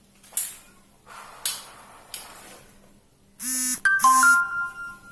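Electric airsoft M4 (AEG) being test-fired: a few sharp clicks, then two short bursts of buzzing gearbox and motor run. A clear ringing tone lingers and fades after the second burst.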